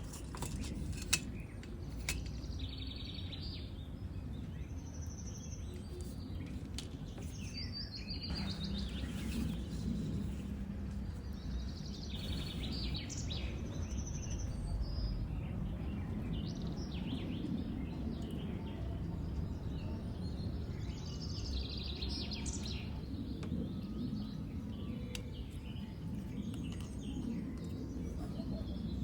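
Birds chirping intermittently over a steady low background rumble, with a single sharp click about a second in.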